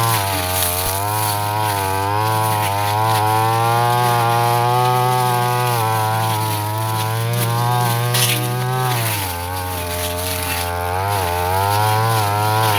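Brush cutter engine running at high speed while cutting grass, its pitch wavering as the load changes. It bogs down about nine seconds in, picks up again, and drops off sharply at the end as the throttle is let go.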